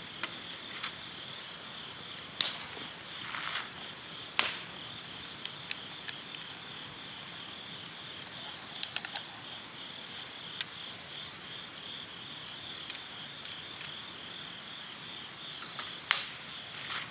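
Insects chirping in a steady, pulsing high trill, with a wood campfire crackling over it in scattered sharp pops.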